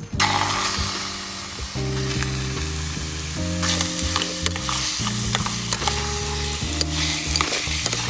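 Food sizzling in a frying pan, a steady frying hiss with scattered sharp crackles of spattering fat.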